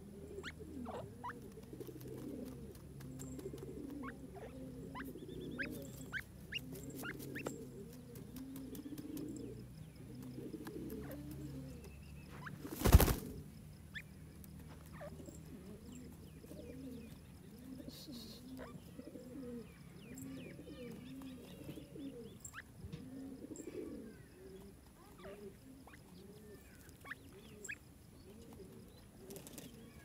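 Low, wavering cooing bird calls run on without a break, over faint scattered clicks. About thirteen seconds in there is one sharp knock, the loudest sound.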